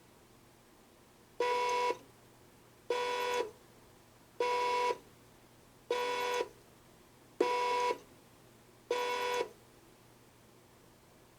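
Electronic beeper of a modified toy washing machine sounding six times, each beep about half a second long and about a second and a half apart, over a faint steady hum.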